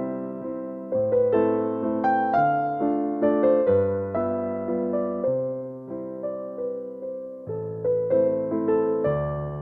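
Soft, slow piano music: a gentle melody over sustained bass notes, each note struck and fading away.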